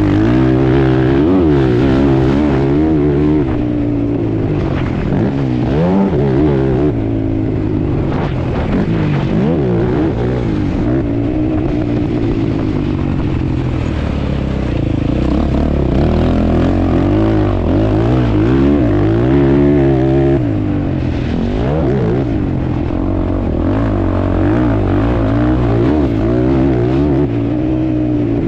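ATV engine running hard under riding, its pitch rising and falling again and again as the throttle opens and closes.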